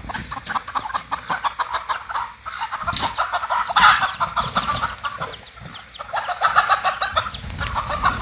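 Chickens clucking, many short calls overlapping in quick succession.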